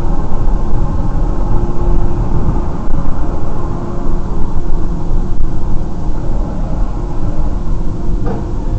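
A vehicle driving: a steady, loud rumble of road and engine noise, with a brief sharp sound near the end.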